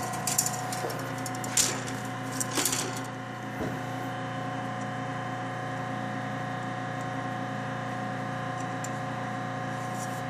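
A few short plastic clicks and knocks in the first four seconds as separator combs are set into an Aprilaire 201 media rack, over a steady background hum.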